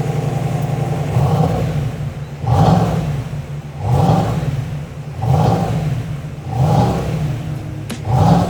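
Cadillac Escalade engine blipped repeatedly through a PID variable-valve exhaust: about six short revs, each rising and falling back to idle, roughly one every second and a half.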